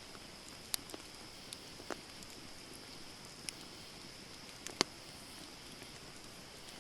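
Wood campfire burning and crackling: a handful of sharp, irregular pops and snaps over a steady soft hiss, the loudest pop a little before five seconds in.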